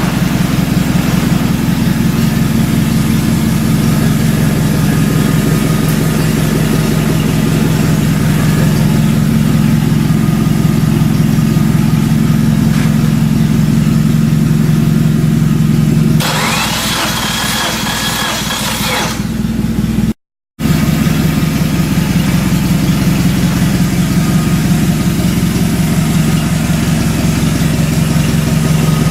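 Subaru EJ20 turbo flat-four engine idling steadily with an even low hum. About sixteen seconds in, the hum gives way for a few seconds to a higher hissing whine, and it cuts out briefly just before the idle picks up again.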